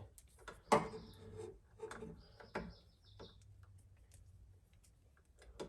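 Hand tools at work on electrical wire: a few sharp clicks of a wire stripper or cutter closing, with a short high scrape about two seconds in.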